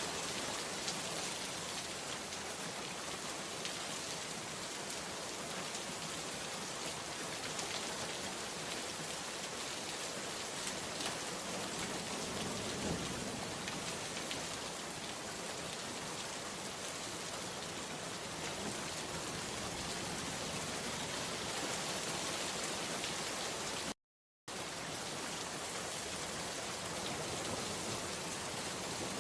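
Steady rain falling, an even hiss of many drops. The sound cuts out completely for about half a second, then resumes unchanged.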